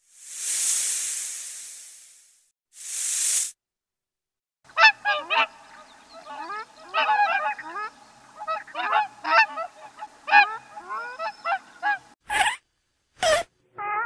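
A snake hisses twice, the first hiss long and swelling and the second short. From about five seconds in, waterfowl give a rapid run of overlapping honking calls. Near the end come two sharp clicks about a second apart.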